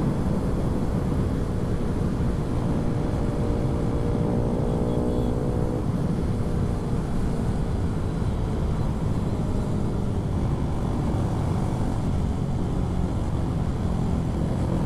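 Honda MSX 125's single-cylinder engine running at a steady pace while riding, under heavy wind rumble on the microphone. The engine's tone is clear for the first several seconds, then sinks into the wind noise.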